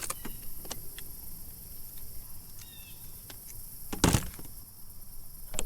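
Scattered clicks and knocks on a fishing kayak as a bass is landed, with a loud thump about four seconds in and another near the end.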